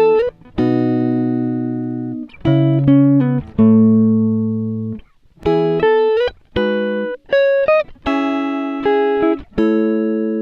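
Background music: plucked guitar notes and chords, each struck sharply and left to ring and fade.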